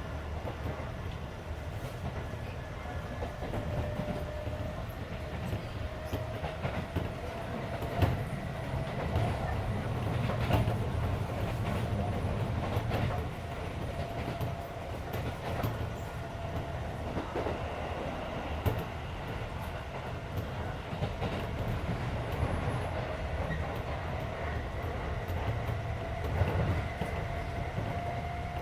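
Keisei 3400 series electric train running, heard from inside the car: a steady rumble and a motor whine that drifts slowly upward in pitch, with sharp wheel clacks over rail joints now and then. The air-conditioning runs underneath.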